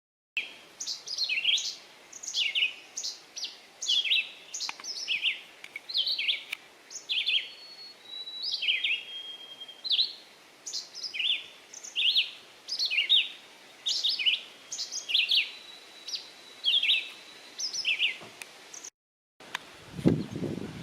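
Small birds chirping rapidly and steadily, a stream of short sweeping notes at about two a second, with a few held whistled tones mixed in. Near the end the chirping cuts off and a low rumbling noise comes in.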